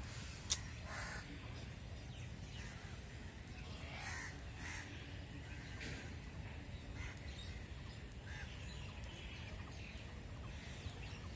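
Birds calling now and then, short caw-like calls, over a low steady outdoor rumble, with one sharp click about half a second in.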